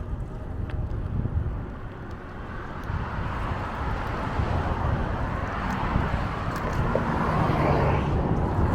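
Wind rumbling on the microphone during a bicycle ride, with a vehicle's noise growing louder over the second half.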